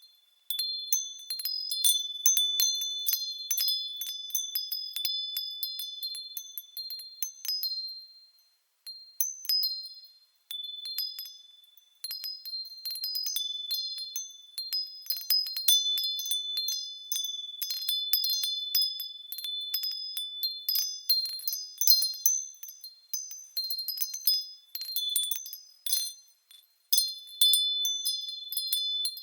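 Japanese wind chimes (fūrin) tinkling in the breeze: irregular clinks of the strikers, each leaving clear, high ringing tones, with a few short lulls where the wind drops.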